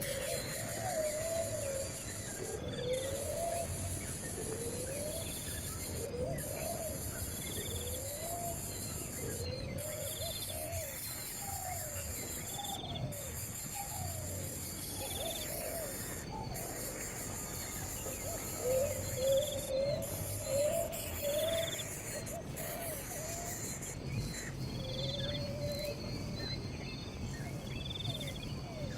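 Steady insect chorus, with a short high note repeating about every second and a half. Over it, a low sliding bird call repeats about once a second, quickening into a run of calls about two-thirds of the way through.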